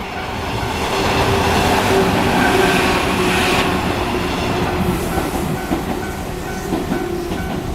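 JR Nara Line 103 series electric train passing over a level crossing, a steady rumble with wheels clattering over the rail joints. A level-crossing warning bell dings about twice a second above it, clearest in the second half.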